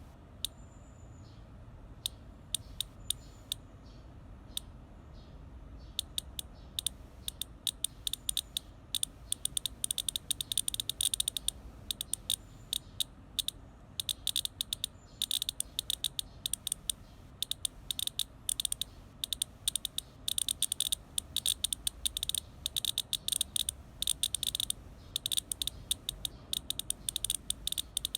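A cicada making rapid, irregular clicking, sparse at first and growing dense and rattling from about six seconds in.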